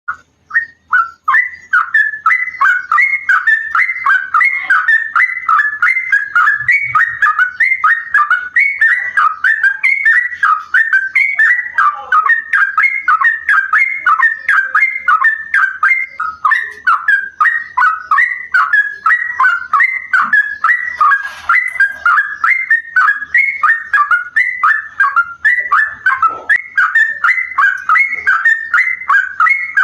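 Yellow-vented bulbul (trucukan) singing a long, fast, unbroken run of whistled notes, a 'ropel' song in the style of the straw-headed bulbul (cucak rowo).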